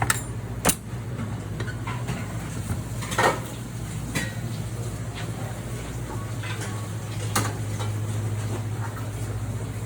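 Restaurant kitchen clatter: dishes, pans and utensils clinking and knocking, with several sharp clinks spread through, over a steady low hum.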